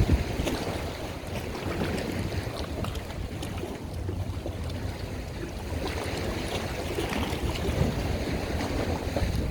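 Wind buffeting the microphone over the wash of water, with uneven low rumbling gusts and a brief thump at the start.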